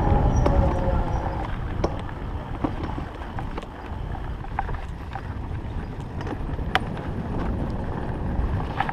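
Electric enduro bike ridden over a rough forest road: wind rumbling on the microphone, louder in the first second or two, with scattered clicks and knocks as the bike rattles over the ground.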